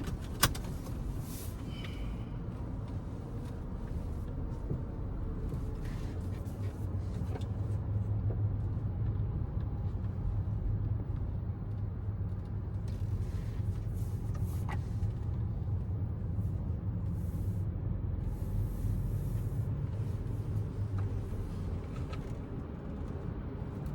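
Low, steady rumble of a car moving slowly at low engine speed, with a single sharp click about half a second in.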